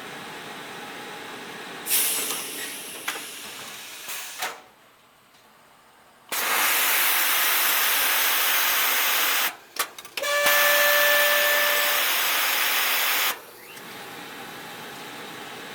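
Clothes-cleaning plant machinery running steadily, broken by steam hissing: a short burst about two seconds in, then, after the background drops out briefly, two long loud blasts of steam in the middle, the second opening with a short whistling tone.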